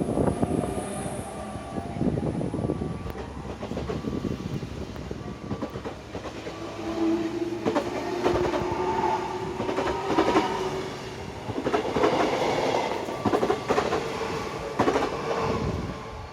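Z2N double-deck electric multiple units (SNCF Z 20500 / Z 20900) pulling away: the electric traction motors whine in steady tones that step up in pitch as the train gathers speed, while the wheels clatter over rail joints and points.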